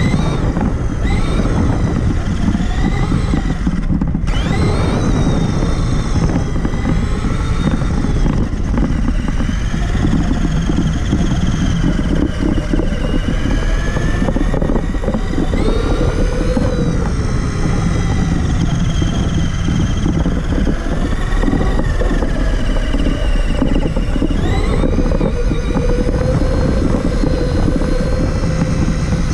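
Onboard sound of a Traxxas Summit RC truck driving: its electric motor and gears whine, rising and falling in pitch again and again with the throttle, over a steady rough rumble from the chassis and tyres.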